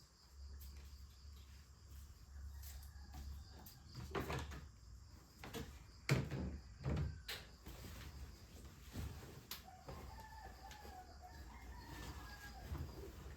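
A rooster crows once, a wavering call of about two and a half seconds starting some ten seconds in. Scattered knocks and clatter come before it.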